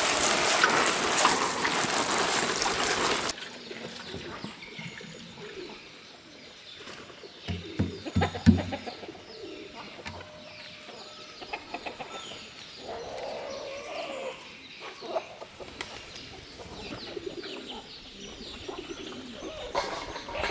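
A loud steady hiss that cuts off suddenly about three seconds in, followed by birds chirping and calling, with a few louder low calls about eight seconds in.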